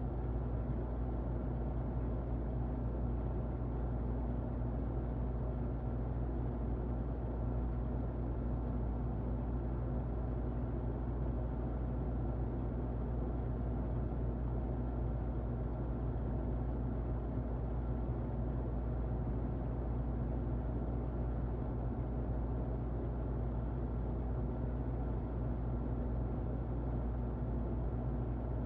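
Muffled electric fan running steadily: an even, low, dull rush with a faint steady motor hum underneath.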